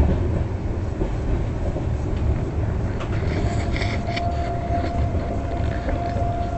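Passenger train running on the track with a steady low rumble. A thin, steady whine comes in about three seconds in.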